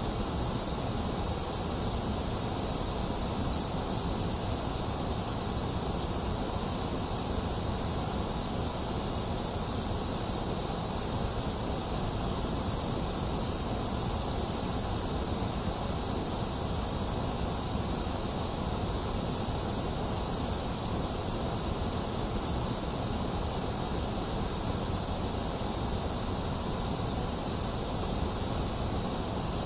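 Box fan running steadily, mixed with continuous rain: an even, unchanging noise with a low whir and a high hiss.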